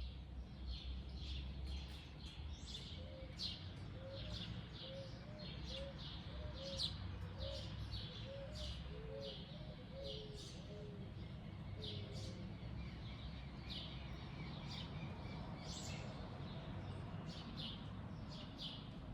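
Wild birds chirping, many short high chirps repeated without pause, over a steady low rumble. In the middle a second bird adds a run of short low notes, about two a second.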